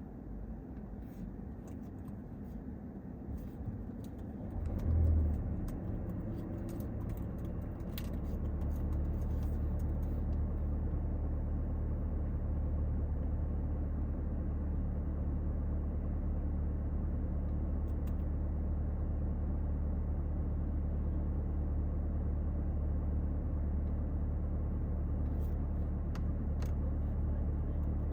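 A car engine running steadily with a low rumble. It swells briefly about five seconds in, then settles into a louder, even hum from about eight seconds on.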